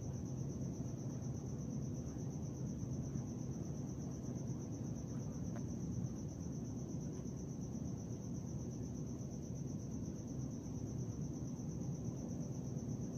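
Crickets trilling steadily in a high, unbroken pulsing chorus over a constant low rumble.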